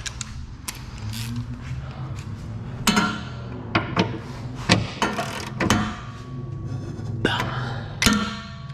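Irregular sharp metallic knocks and clanks, about eight over the last six seconds, ringing briefly: tools working on metal rear suspension parts. A low steady hum runs underneath.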